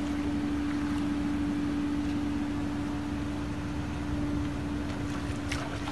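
An engine running steadily, with a constant droning hum and low rumble.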